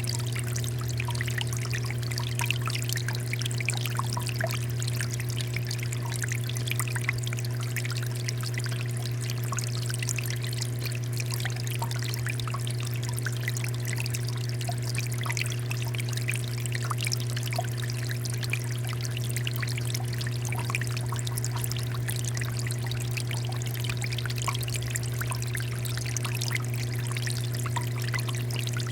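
Water fountain flowing steadily, with continuous trickling and splashing over a steady low hum.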